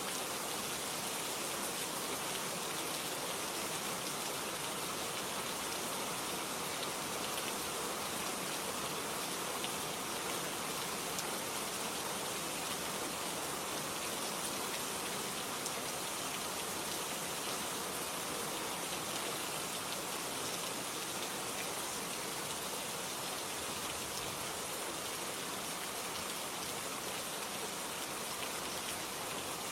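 Steady rain falling on a surface, an even hiss with fine patter of drops that does not change.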